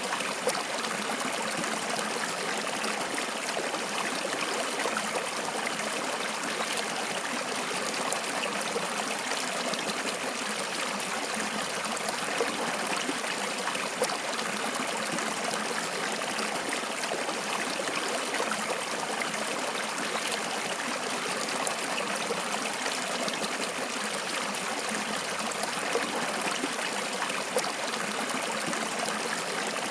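Stream water flowing and trickling, a steady, even rush with small splashes.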